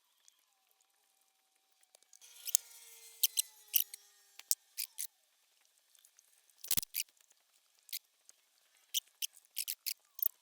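Sharp, light clicks and taps at uneven spacing, from small hard objects being handled, with faint thin tones drifting slightly downward between about two and four and a half seconds in.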